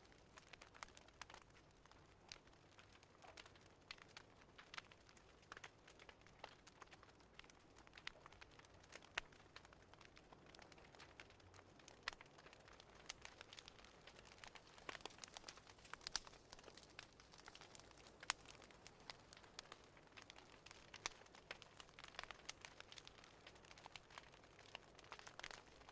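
Faint fireplace fire crackling, with irregular sharp snaps and pops over a soft hiss.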